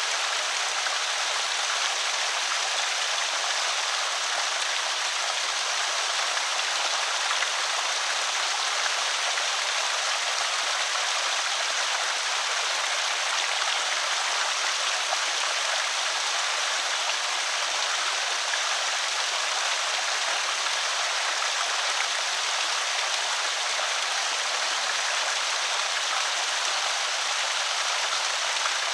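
Water pouring over a small creek spillway, a steady, even splashing and trickling that keeps the same level throughout, mostly in the middle and upper range with little low rumble.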